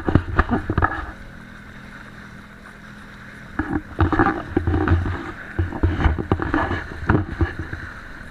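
Jet ski engine running steadily under way. It is broken by loud, choppy bursts of water and wind noise during the first second and again from about four to seven and a half seconds in.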